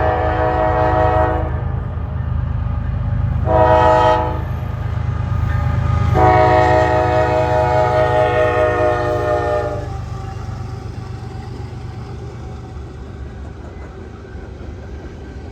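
CSX freight locomotive's air horn sounding a chord: the tail of a long blast, a short blast about four seconds in, then a long blast of about three and a half seconds, the closing short-long of a grade-crossing signal. Under it the low, steady rumble of the passing diesel freight train carries on after the horn stops.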